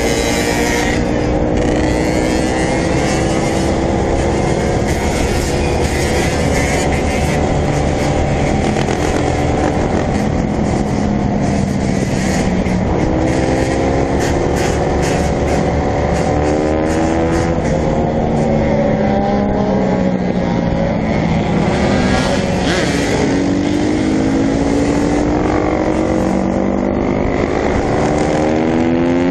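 Dirt bike engine revving while riding, its pitch rising and dropping several times as it accelerates and shifts.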